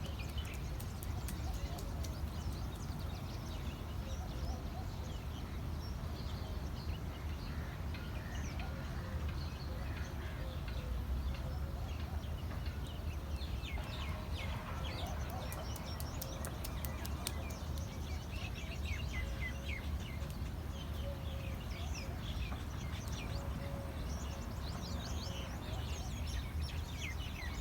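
Small birds chirping and calling, many short chirps that grow busier about halfway through, over a steady low rumble.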